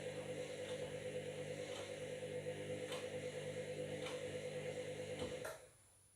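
Washing machine motor running with a steady whine and a faint tick about once a second, then stopping abruptly about five and a half seconds in.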